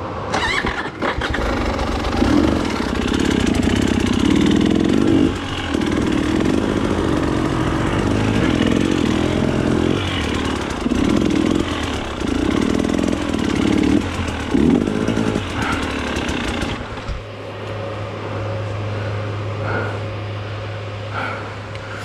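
Off-road motorcycle engine revving hard in repeated surges for about 17 seconds, then dropping to a steady idle.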